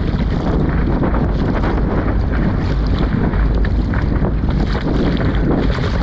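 Strong wind buffeting the microphone, a loud, steady rush.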